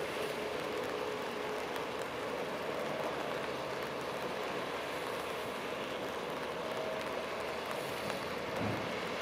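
Steady hiss of rain falling, with scattered drop ticks and a faint steady tone underneath.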